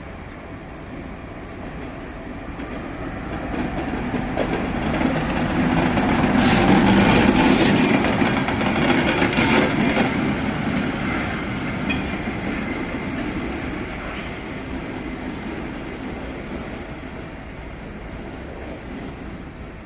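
M62 diesel locomotive's two-stroke V12 engine running as the locomotive passes, running light without wagons; it grows louder to a peak about seven seconds in, then fades away.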